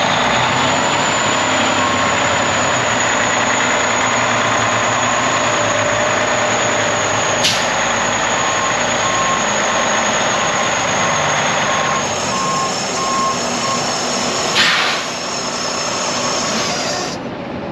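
Heavy diesel truck running steadily, likely the Freightliner Coronado's Detroit DD13 engine, with a faint intermittent beeping in the middle and two sharp clicks.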